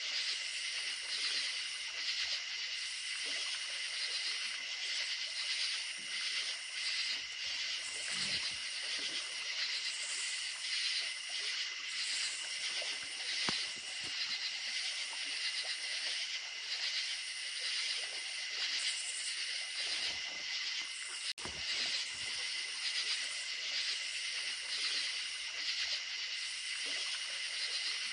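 A steady night chorus of crickets and other insects, with several layered high trilling pulses, over a faint wash of running creek water. One sharp click and a brief drop in the sound come about three quarters of the way through.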